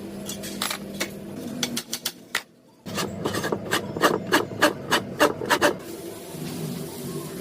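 Hammer blows on metal sewing-machine parts in a workshop: scattered knocks over a low hum, a brief break, then a steady run of about three sharp strikes a second lasting under three seconds.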